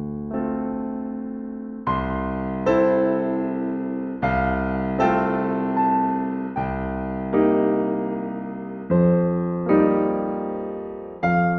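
Slow, calm solo piano music: soft chords struck about every second, each left to ring and fade before the next.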